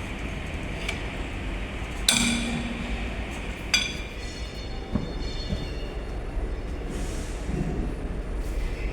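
Steel tools striking and clinking against steel: two sharp, ringing metallic clinks about two seconds apart, then a lighter knock, over a steady low hum.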